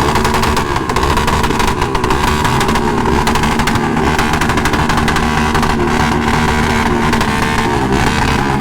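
Motorcycle engines running, their pitch rising and falling again and again as the throttle is opened and eased off, over a steady dense rush of engine and road noise.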